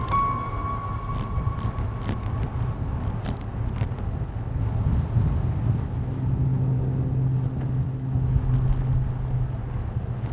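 Wind and road noise from riding a bicycle, with a few faint clicks early on and a steady low hum joining about six seconds in.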